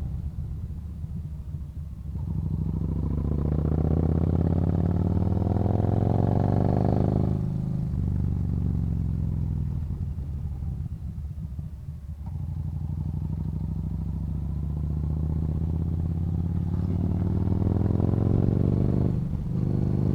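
Yamaha Bolt's air-cooled V-twin engine pulling on the road. The engine note climbs in pitch under throttle, drops off about a third of the way in as the throttle closes or the gear changes, then climbs again and dips briefly near the end.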